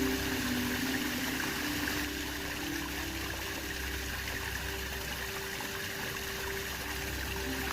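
Waterfall's falling water making a steady rush. Faint soft held music notes can be heard in the first two seconds.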